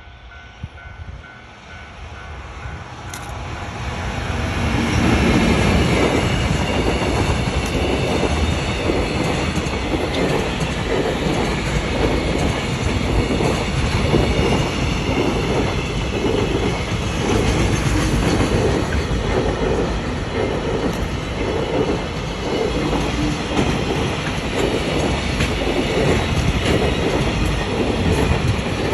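JR Freight EF210 electric locomotive and its freight wagons passing, growing louder over the first five seconds into a steady rumble with a rhythmic clatter of wheels over rail joints.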